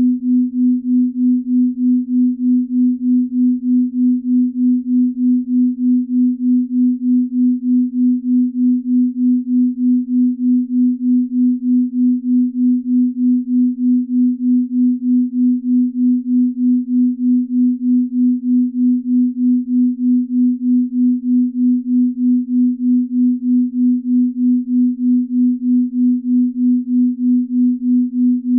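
Binaural-beat tones: a low, steady pure tone that pulses evenly about two and a half times a second.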